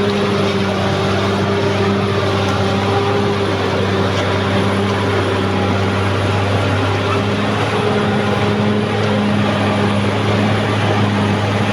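Caterpillar D6R XL bulldozer's diesel engine running at a steady speed, a constant loud drone with no revving.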